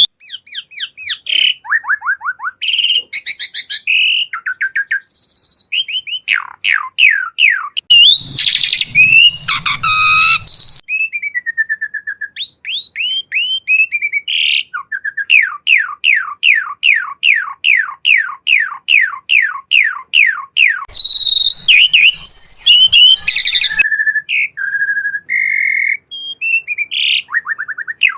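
Asian pied starling (jalak suren) singing a varied song of loud whistles and chatter, with harsher notes mixed in. About halfway through it gives a long series of quick downward-sweeping whistles, about three a second.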